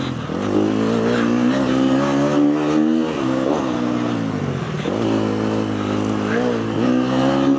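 KTM four-stroke motocross bike engine heard on board, the rider opening and closing the throttle over bumpy ground. The engine note holds for stretches and then dips and climbs again several times.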